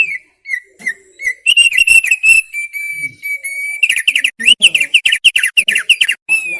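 Thick-billed opior (opior paruh tebal, thick-billed heleia) singing: a loud phrase of clear whistled notes that starts with short slurred notes, holds one steady whistle for about a second, then breaks into a quick run of falling notes, several a second, to close the phrase.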